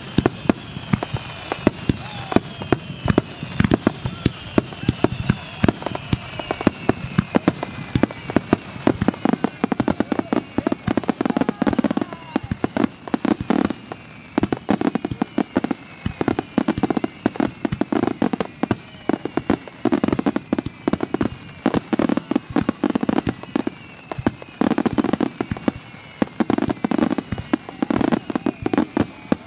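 Climax barrage of an aerial fireworks display at close range: a dense, rapid volley of bangs and crackles, with deeper booming shell bursts about once a second and falling whistles among them.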